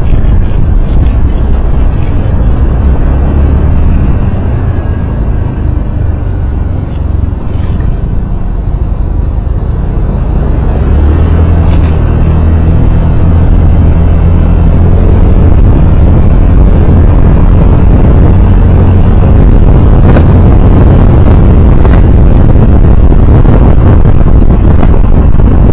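A road vehicle on the move: loud, steady low engine and road rumble that eases a few seconds in and builds back up from about eleven seconds.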